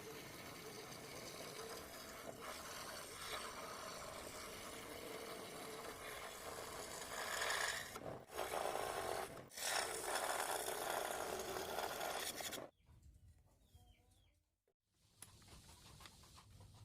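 Wood being abraded by hand, a steady rubbing rasp that gets louder in strokes with two short breaks, then stops abruptly about thirteen seconds in.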